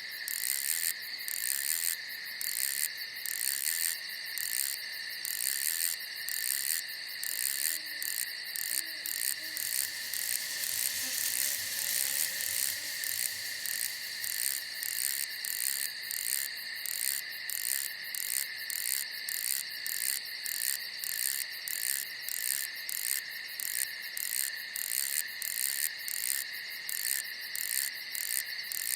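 Crickets and other night insects chirping in a dense, continuous chorus, with a regular pulsing rhythm in the higher chirps.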